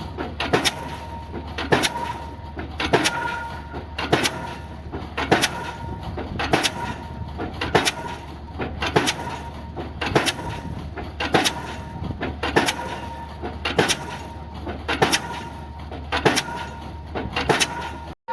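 Diesel pile hammer driving a spun concrete pile: sharp, evenly spaced blows, roughly one and a half a second, over a steady low engine hum. The sound cuts out briefly near the end.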